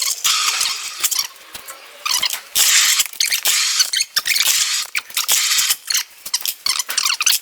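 Plastic carrier bag rustling and crinkling as it is handled, in loud bursts with brief pauses, stopping suddenly at the end.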